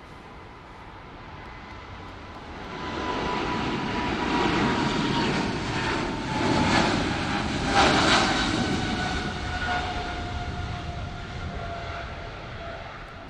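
Boeing 777-300ER's twin GE90-115B turbofans passing by on departure: the jet noise swells over a few seconds, peaks about two-thirds of the way in, then fades, with a whining tone falling in pitch as the aircraft goes past.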